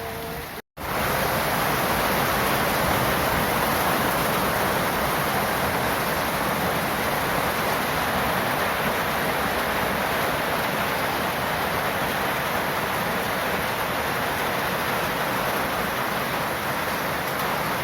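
Heavy rain pouring down steadily as a dense, even hiss. The sound drops out completely for a moment under a second in, then comes back louder.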